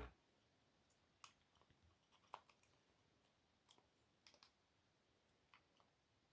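Faint, scattered clicks and light taps of small hard parts being handled, about a dozen spread irregularly, the sharpest a little over a second in and about two and a half seconds in.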